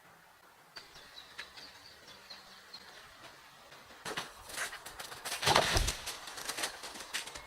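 A few faint, high bird chirps, then, from about halfway, loud irregular rustling and scuffing noises.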